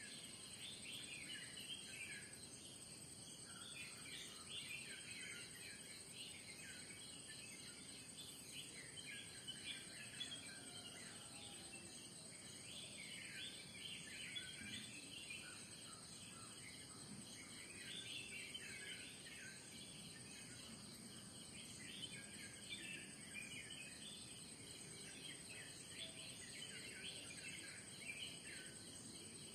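Faint morning chorus of many birds chirping and calling over a steady, high-pitched drone of insects.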